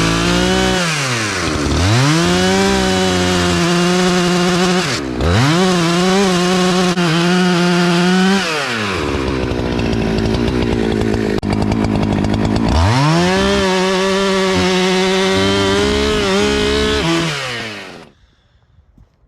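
Chainsaw revved again and again, cutting into a white oak log: its engine climbs from idle to a high steady pitch in the cut, drops back, and climbs again several times, then cuts off suddenly near the end.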